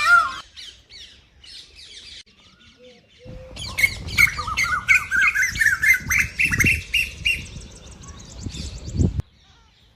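Birds calling: a rapid string of chirping, squawking notes from about three seconds in, over a low rumble, cutting off abruptly shortly before the end.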